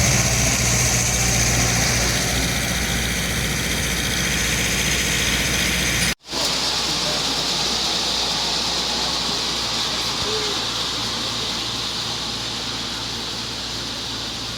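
Steady low engine drone and hiss of a diesel-hauled excursion train. It cuts out for a split second about six seconds in, then carries on slightly quieter.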